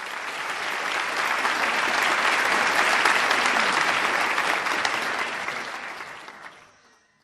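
Audience applauding, many people clapping at once; the applause fades in, peaks about three seconds in and fades out to silence near the end.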